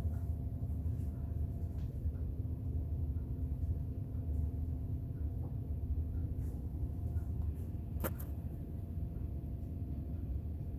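Vintage Bahama ceiling fan running on low, a steady low rumble with a faint motor hum. A single sharp click about eight seconds in.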